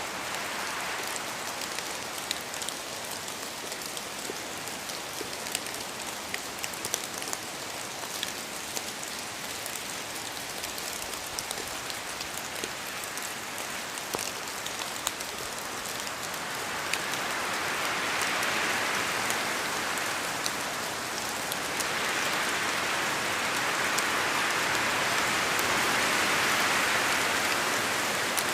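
Steady rain in a forest, with many scattered drops pattering down from the trees. The hiss swells louder twice in the second half.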